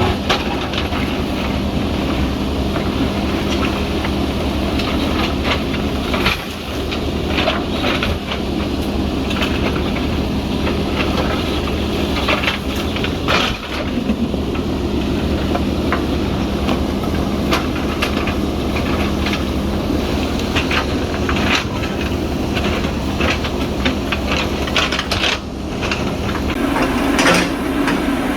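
JCB backhoe loader's diesel engine running steadily under work, with frequent clanks and rattles from the bucket and linkage as it moves and scrapes soil. It gets a little louder near the end.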